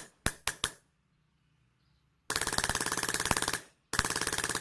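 High-pressure air firing system of an airsoft AR-15 being fired to bleed off its remaining air after the supply valve is shut. Three single pops come in the first second, then two rapid full-auto bursts of about a second each.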